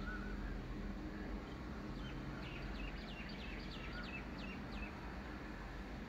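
Birds calling at dawn: a quick run of about ten short, high, down-slurred notes, roughly four a second, starting about two seconds in, with a couple of softer warbled whistles. A low steady hum runs underneath.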